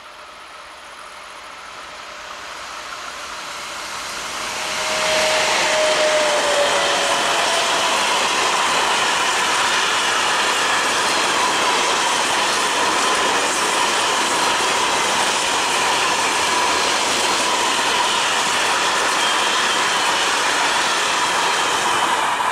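A diesel-hauled freight train of hopper wagons approaching and passing close by. It grows louder over the first few seconds; about five seconds in the locomotive goes past with a short, slightly falling tone. The wagons then run by with a loud, steady rumble and rattle, with high squealing tones from the wheels.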